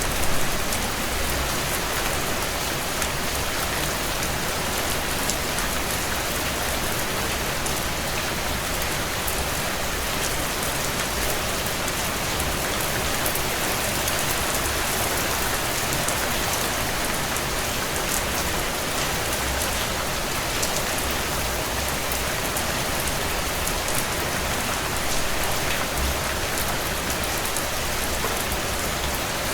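Heavy rain drumming steadily on a tin roof, a dense even patter of drops with no break.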